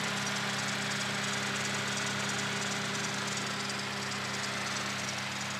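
Daihatsu Charade's carburetted engine idling steadily with an even, unchanging note. It runs smoothly and sounds good now that the carburetor and fuel tank have been cleaned and the high-tension leads replaced, curing its hard starting.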